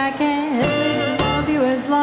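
Small-group swing band playing an instrumental chorus: a horn melody with bending, held notes over walking bass, piano and drums.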